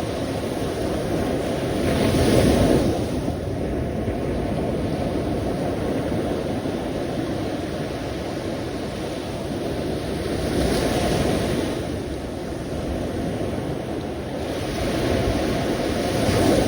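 Sea surf: a steady wash of waves, swelling three times as waves break, a couple of seconds in, in the middle and at the end.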